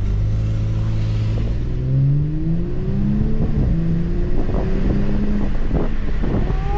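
Turbocharged Audi S5 engine accelerating under load, its pitch climbing, dropping briefly at a gear change about three and a half seconds in, then climbing again.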